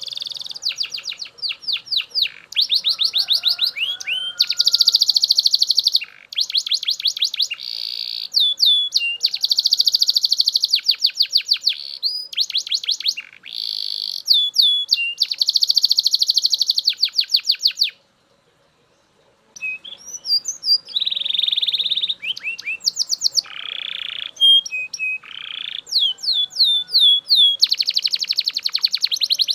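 Male Belgian canary singing a long, loud song of fast trills, rapid runs of repeated chirping notes with some buzzy rolls. It breaks off for about a second and a half about two-thirds of the way through, then starts again.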